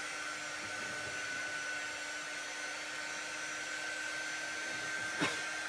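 Handheld hot-air dryer blowing steadily with a constant motor whine, drying freshly coloured craft cutouts. A brief tap sounds near the end.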